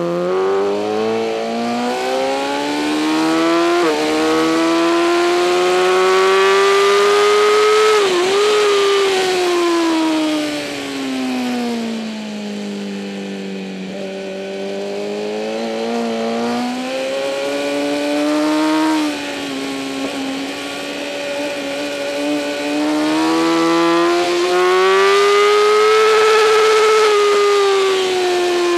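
2008 Kawasaki ZX-10R inline-four superbike engine at racing speed: revs climb with short dips at gear changes, fall away over several seconds, then climb again and ease off near the end.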